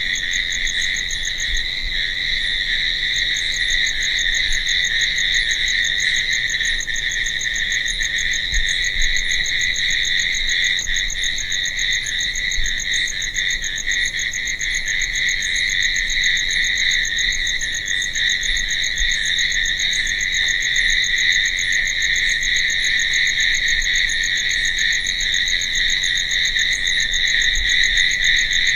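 Crickets chirping in a continuous night chorus: a steady high trill with a faster pulsing trill above it and faint regular ticks higher still.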